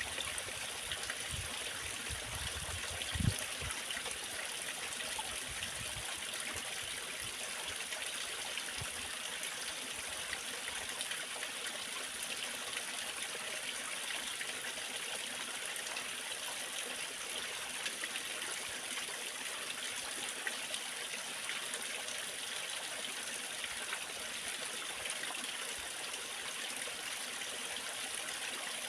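Waterfall rushing with a steady, even hiss of falling water. A few low thuds sound in the first few seconds, the loudest about three seconds in.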